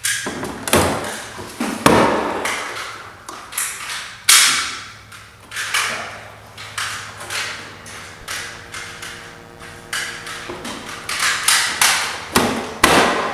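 A series of sharp, ringing knocks and thuds, more than a dozen at uneven spacing, each fading away quickly, with a few swishing sweeps that fall in pitch.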